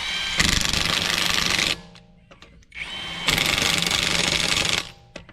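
Impact wrench tightening lug nuts onto a wheel hub in two bursts of rapid hammering, each about a second and a half long. Each burst starts with a brief rising motor whine.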